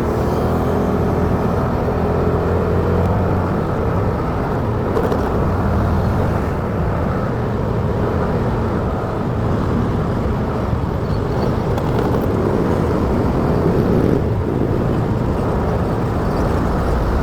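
Motorcycle riding along a city road: steady engine and road noise, with a clear, even engine hum in the first few seconds.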